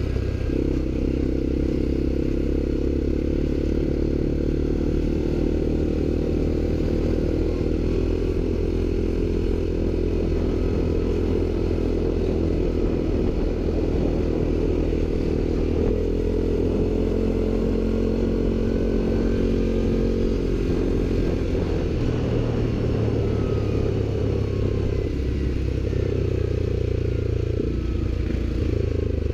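ATV engine running steadily under way, with some clatter.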